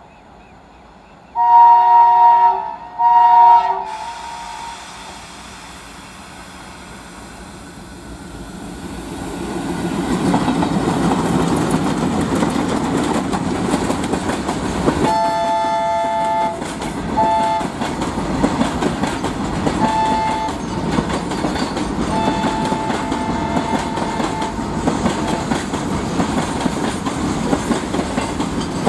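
Indian Railways diesel locomotive horn sounding two loud multi-tone blasts, then the train's rumble and wheel clatter building up and running on as it passes. The horn sounds again several times over the running noise, once held for about two seconds.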